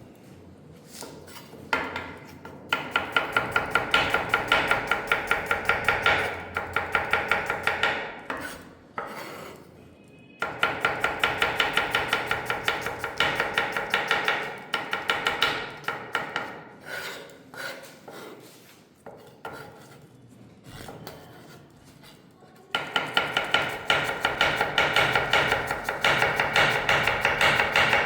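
Kitchen knife chopping quickly on a wooden cutting board, about three strokes a second, in three long runs with quieter scraping and knocking between them.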